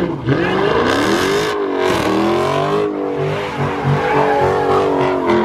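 Car engine revving hard at high revs, its pitch rising and falling, with tyres squealing as the car spins donuts.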